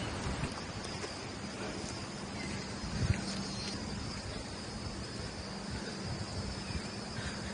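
Steady high-pitched chorus of insects such as crickets or cicadas, with low rustling and a sharp knock about three seconds in.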